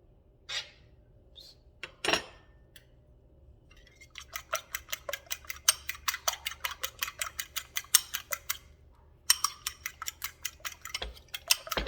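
A fork beating eggs against the side of a bowl, a fast even clicking of about five or six strokes a second. It comes in two runs with a short pause between them, after a couple of single clinks at the start.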